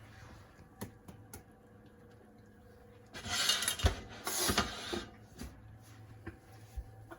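Kitchen handling sounds around a cooking pot: a few light knocks, then two noisy rustling or pouring bursts of about a second each, with a dull thump between them.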